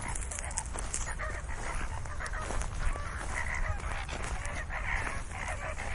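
A flock of flamingos honking, with many short, overlapping calls.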